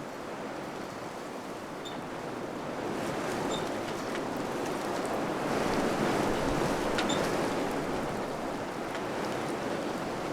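Wind blowing in gusts, a rushing noise that swells to its strongest about halfway through and then eases a little.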